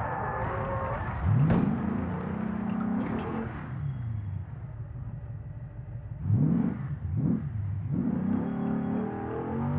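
Porsche Cayenne Turbo S twin-turbocharged V8 heard from inside the cabin, accelerating hard twice, about a second in and again about six seconds in, its pitch rising quickly each time. Between the two pulls the engine eases off and its pitch falls away.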